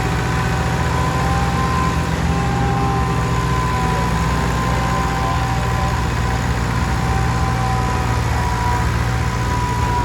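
Antique farm tractor engine running steadily, with a steady high whine over it.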